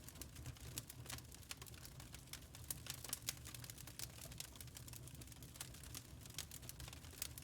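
Wood fire crackling in a fireplace: irregular small snaps and pops over a low steady rumble.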